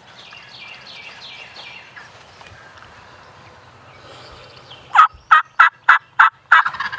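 Turkey calling: faint turkey notes in the first two seconds, then a run of six loud, short, evenly spaced yelps near the end.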